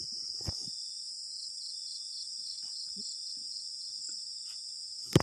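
Night chorus of crickets: a steady high-pitched trill, with one insect chirping in quick pulses for a couple of seconds about a second in. A single sharp knock near the end is the loudest sound.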